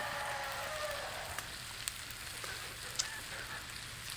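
Pork ribs, carrots, peppers and onion sizzling steadily in a wok, with a few sharp ticks.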